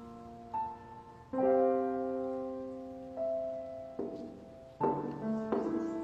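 Slow, gentle piano music: soft notes and chords struck about a second apart and left to ring and fade.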